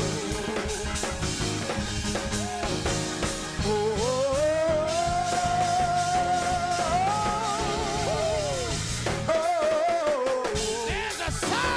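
Live gospel praise music: a singer holds long notes with vibrato over a band with drums.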